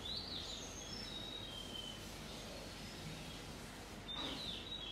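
Small birds chirping in the background: a few short high chirps and whistles, one group at the start, one near the middle and one near the end, over a steady low hum of room or recording noise.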